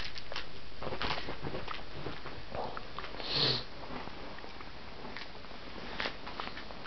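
Light scattered taps, scuffles and rustles of a kitten playing with a toy mouse on a string, with one short breathy sniff about three and a half seconds in.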